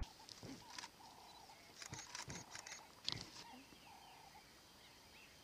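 Quiet outdoor ambience with scattered faint bird chirps and a few soft clicks about two to three seconds in.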